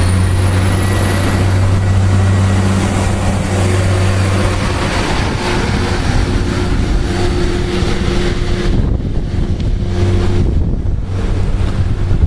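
Diesel passenger train's underfloor engine running with a steady low drone, heard close by from the platform.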